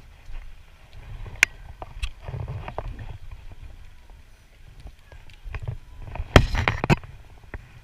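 Handling noise on a kayak: uneven low rumbling of water and movement, scattered single clicks, and a quick run of loud sharp knocks against the hull a little over six seconds in.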